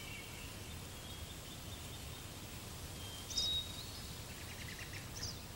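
Faint forest ambience with birds calling: a few short high whistled notes and quick chirps, the clearest about three seconds in and again near the end.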